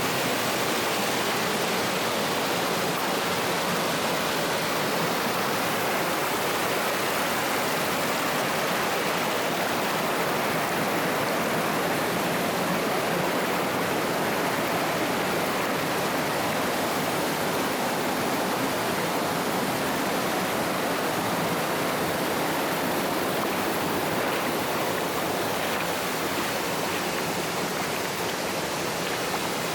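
Rushing water of a mountain stream, a steady, even rush.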